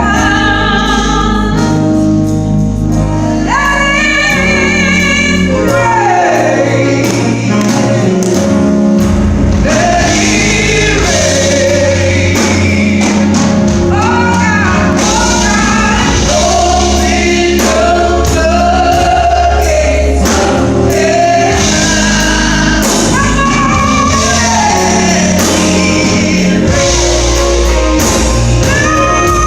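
Gospel music: voices singing sustained, bending melodies over a steady bass and band accompaniment.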